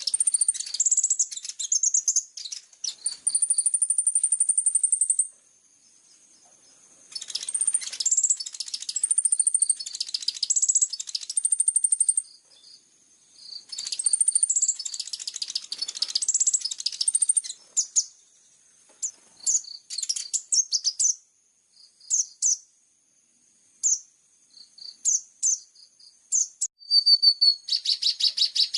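Javan bush lark (branjangan) song: three long runs of fast, high chirps and whistles with short pauses between them, then scattered short calls, and a fast even trill starting near the end.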